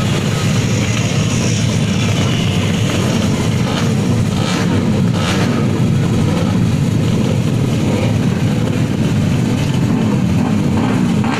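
Drag-race motorcycle engines revving in a loud, steady din, their pitch rising and falling again and again, with a couple of sharp cracks about halfway through.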